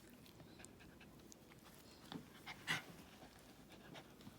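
Dog breathing quietly, with faint ticks and a short breathy puff about two and a half seconds in.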